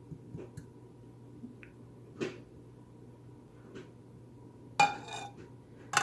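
Kitchen dishes being handled: a few faint clicks and knocks, then a louder ringing clink near the end.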